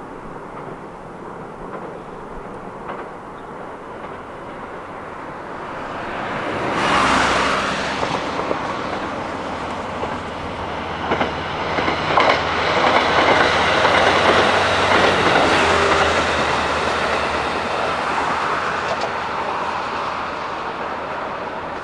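Passenger train passing close by. About seven seconds in it suddenly grows loud, and its wheels clack repeatedly over rail joints through the middle. The sound then slowly fades as it goes.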